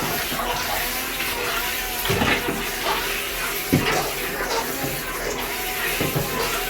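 Water churning and splashing in a bathtub as a Syma Q9 remote-control speedboat's twin electric motors drive its propellers, with a few sharper splashes.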